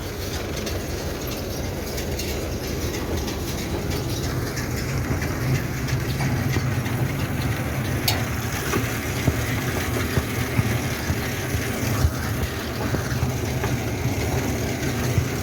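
Tractor and baler working in a field, baling brome grass for haylage: a steady low engine rumble with irregular clacks and knocks from the machinery.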